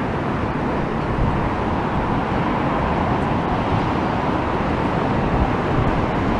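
Steady outdoor noise of wind and rough surf, with a low, uneven rumble of wind buffeting the microphone.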